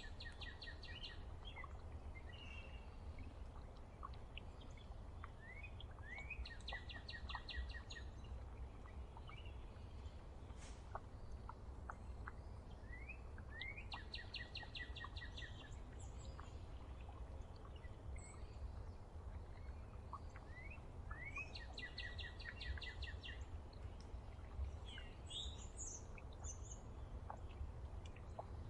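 A songbird repeats the same short song about every seven seconds: a few rising notes, then a quick even trill. Other birds chirp now and then over a steady low rumble.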